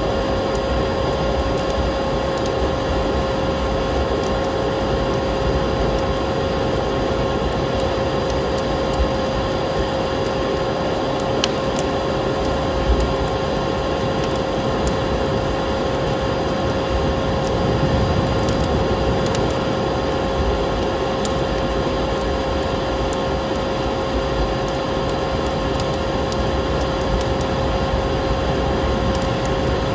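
Wood fire crackling in a fireplace, with scattered small pops over a steady rushing noise and a constant hum.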